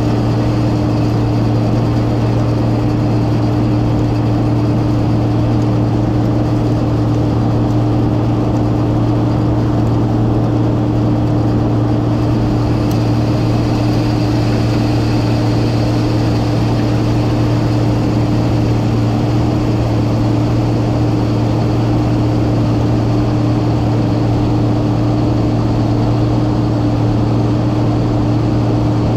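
Massey Ferguson 9690 combine harvester running steadily while shelling corn: a constant, even drone with a strong low hum and a second steady tone above it.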